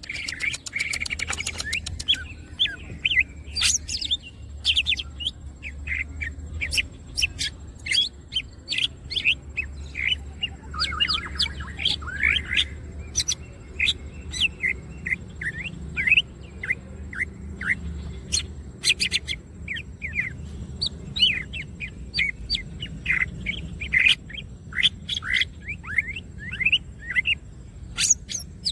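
Green leafbird (cucak ijo) singing continuously: a rapid, varied string of short chirps and quick rising and falling whistled notes, with a few fast chattering trills, over a steady low hum.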